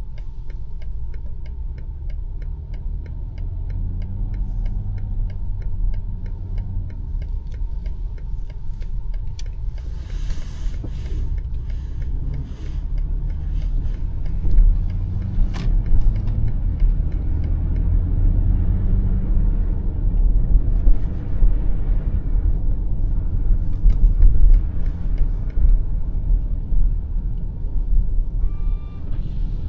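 Cabin sound of a BMW X5 M50i's twin-turbo V8 running at low speed, with a steady rumble from the engine and the tyres on snow. An indicator ticks evenly through the first nine seconds or so, and a short electronic beep sounds near the end.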